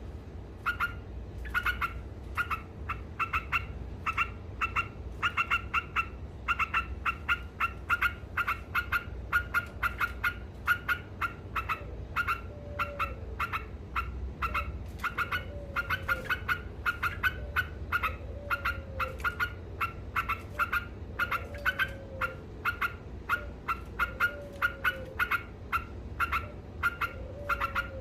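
Yellow-vented bulbul calling in a rapid, unbroken chatter of short, sharp notes, several a second.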